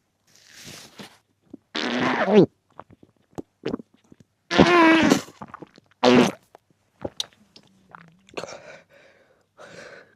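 Three short, loud pitched vocal noises from a person's mouth and throat while eating, each sliding down in pitch, with small mouth clicks and softer noises between them.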